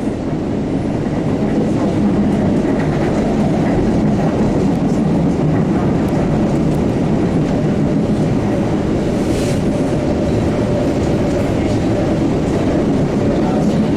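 MBTA Blue Line Siemens 700 series subway car running between stations, heard from inside the car: a steady rumble of wheels on rail with faint steady motor tones.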